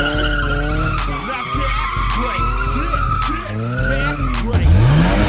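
Car tyres squealing in a sustained slide while the engine revs, as in a street donut; the engine revs up sharply near the end.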